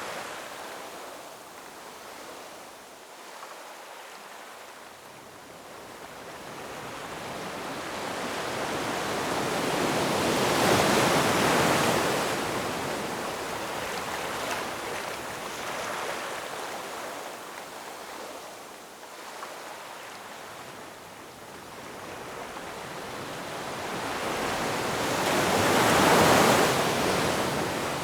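Ocean waves breaking and washing in: a steady surf rush that swells slowly to two big crests, about eleven seconds in and again near the end, with smaller surges between.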